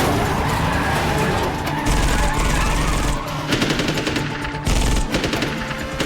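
Rapid automatic gunfire in bursts, densest about halfway through, over a loud action film score.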